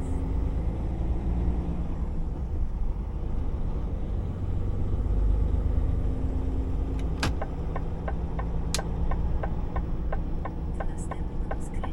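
Cab sound of a DAF XF 480's straight-six diesel running with a steady low rumble. From a little past halfway, the turn-signal indicator ticks about twice a second.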